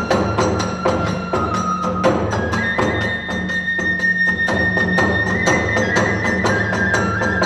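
Kagura hayashi music: a bamboo transverse flute holds long high notes that step up about two seconds in, over a fast, steady beat of drums and small hand cymbals.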